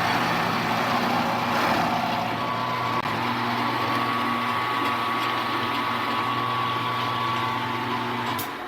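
Small milling machine running steadily with a motor hum and a high whine, then switched off near the end as it winds down.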